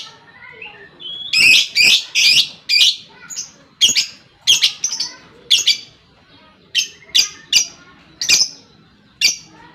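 Lovebird giving a rapid series of short, shrill chirps, about a dozen in a row starting about a second in.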